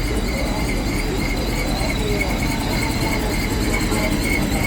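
Steady rumble of vehicles running, mixed with faint background voices and a thin, high, pulsing tone.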